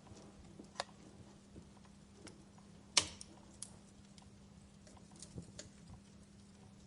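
Wood fire crackling: scattered sharp pops and snaps at irregular intervals, the loudest about three seconds in, over a faint steady low hum.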